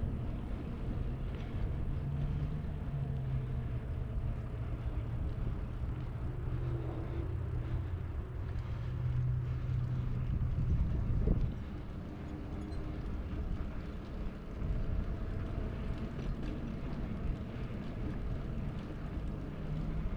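Street traffic: a motor vehicle's engine hum over low road rumble, which drops off suddenly about eleven seconds in and gives way to quieter rumble.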